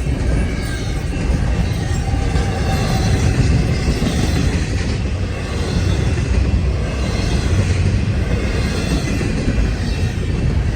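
A CN freight train's rail cars rolling steadily past at close range, a continuous heavy rumble of wheels on track.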